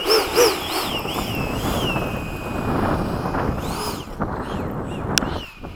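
Electric ducted fan of an 80 mm, 12-blade Freewing F-5 RC jet, driven by a 2000kv inrunner motor, whining as the throttle is worked: the pitch swings up and down several times, then holds steady, with a brief rise near the middle. Wind noise on the microphone, and a single sharp click near the end.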